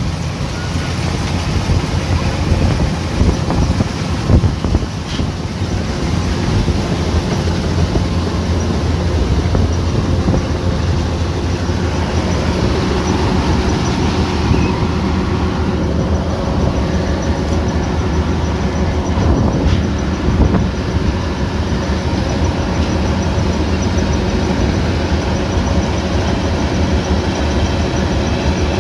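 Kubota DC105X combine harvester running steadily, a loud continuous mechanical drone with a steady engine hum.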